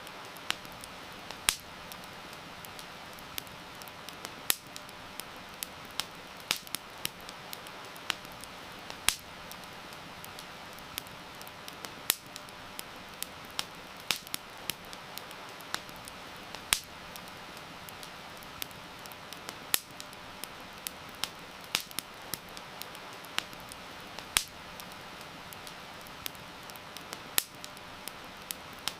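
Wood campfire crackling, with sharp pops at irregular intervals, a few of them loud, over a steady hiss of rain.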